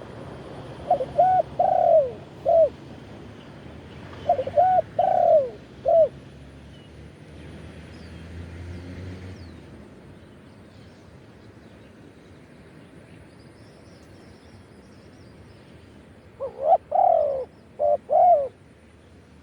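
Spotted dove cooing: three phrases of four or five short, arched coos each, two close together early on and the third after a long pause near the end.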